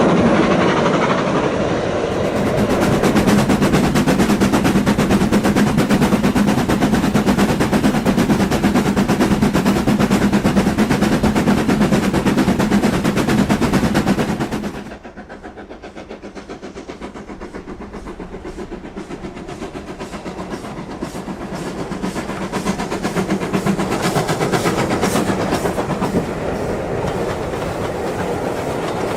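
Model train running on the layout track: a rapid clicking of wheels over rail joints with a steady motor hum. The sound drops suddenly about halfway, then grows louder again.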